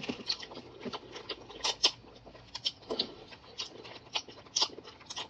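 Close-miked eating sounds: irregular short wet clicks and smacks of chewing, a few each second.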